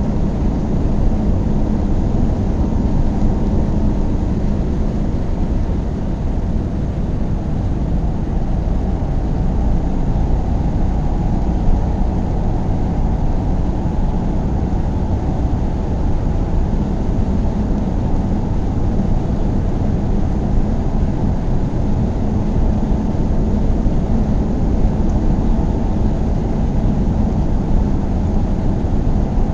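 A car driving at steady speed: a constant low drone of engine and tyres on the road, with no change in pace.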